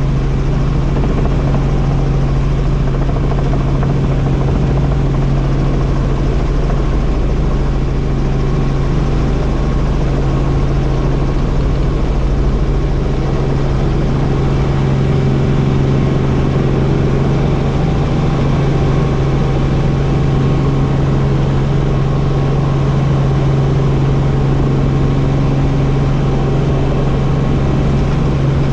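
Helicopter running with a steady, unchanging low drone of engine and rotor.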